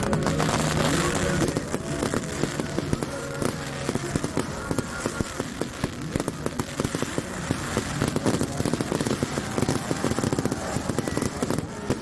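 Fireworks fired from the cruise boat crackling and popping in rapid, irregular bursts. Music fades out in the first second or two, and voices come through now and then.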